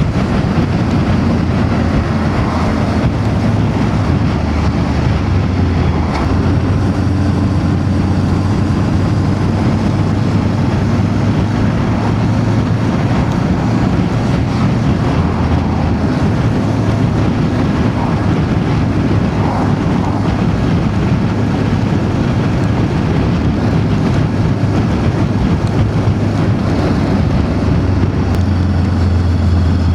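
Voge DS525X motorcycle's parallel-twin engine running steadily on the road, mixed with heavy wind rushing over the microphone.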